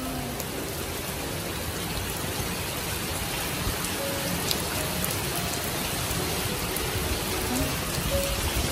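Heavy typhoon rain pouring steadily.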